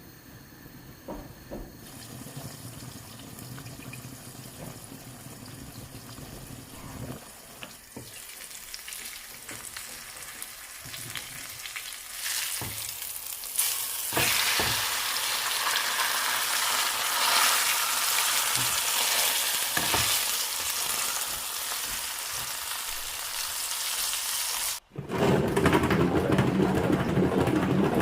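Food frying in a pan: a sizzling hiss with occasional clicks of a stirring utensil, swelling much louder about halfway through. Near the end it cuts off abruptly and a different, lower rushing noise takes over.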